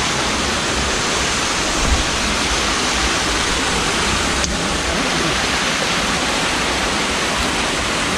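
Steady rush of falling water from a waterfall, with one brief click about halfway through.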